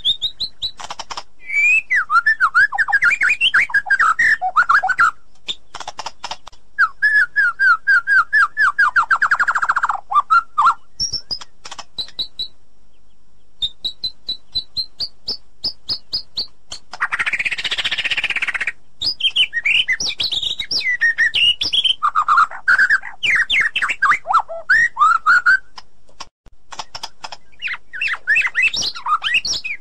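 White-rumped shama singing a long, varied song of clear whistles and fast rising and falling trills in short phrases, with a harsh rasping note of about two seconds a little past halfway.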